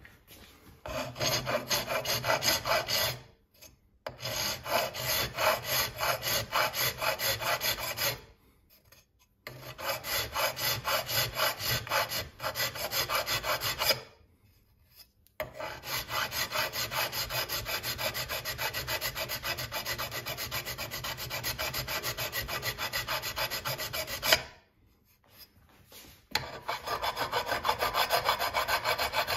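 A hand tool scrubbing back and forth on metal in rapid, even strokes, about four a second, in five bouts broken by short pauses.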